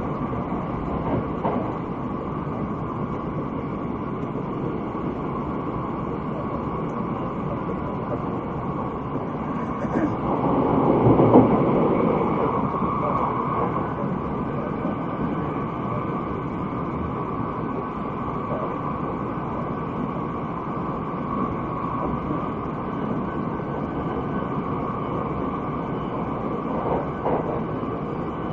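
Running noise of the Thunderbird limited express train at speed, heard from inside the carriage: a steady rumble of wheels on rail with a few faint clicks, swelling louder for a couple of seconds about ten seconds in.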